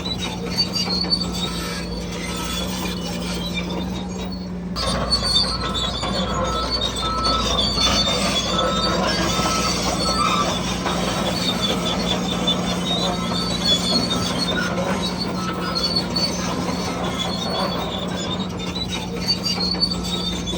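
Radio-controlled model bulldozer running: a steady electric-motor and gearbox whine, with squealing and clatter from its tracks.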